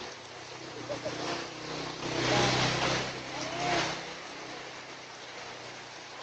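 A car passing on a wet road in steady rain: its engine rumble and tyre hiss swell up about two seconds in and fade away by four seconds.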